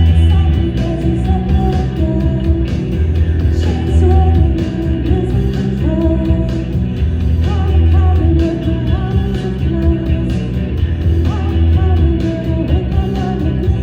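A rock band playing live, with drums, electric guitar and bass under a singing voice.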